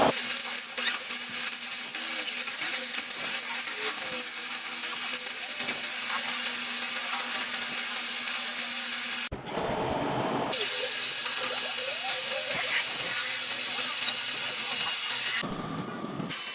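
Metal lathe cutting: a steady high hiss of the tool on the spinning workpiece over the machine's hum, switching abruptly twice to a brief lower rumbling sound.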